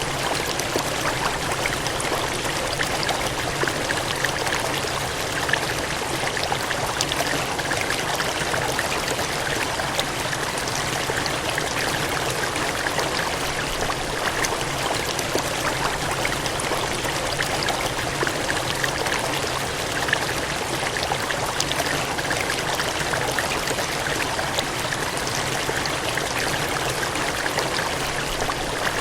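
Gushing, cascading water rushing steadily, with faint small splashes flecked through the even rush.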